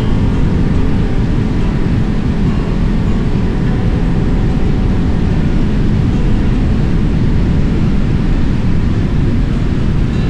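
A motorbike being ridden steadily along a road. Its engine and the tyre and wind noise make a loud, even rush, with no change in speed.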